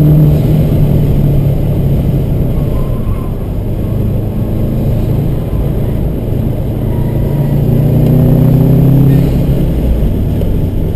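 2010 Subaru WRX's turbocharged flat-four engine on track, heard from inside the cabin. It pulls hard at first, eases off a second or two in through a corner, then rises again in pitch about seven or eight seconds in before backing off about nine seconds in.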